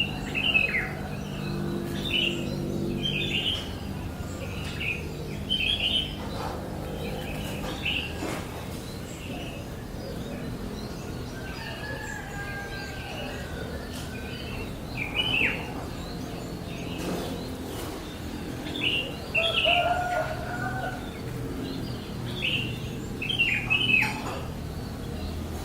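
Small bird chirping: short, high chirps, many sliding downward in pitch, repeated at irregular intervals with clusters of louder calls.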